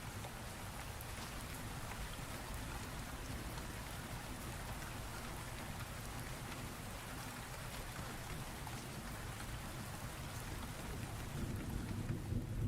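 Steady rain of a thunderstorm, an even hiss with the patter of individual drops, and a low rumble of thunder swelling near the end.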